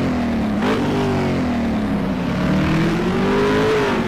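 Motorcycle engine revving: a quick blip of the throttle just after the start, then the revs climbing slowly and falling back near the end.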